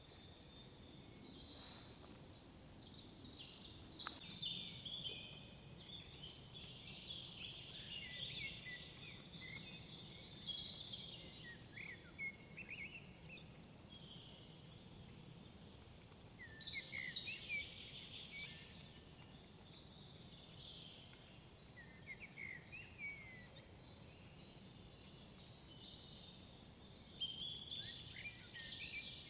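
Several songbirds singing in woodland, short phrases every few seconds, with one high, thin trill repeating about every six seconds. A faint steady rushing sits underneath.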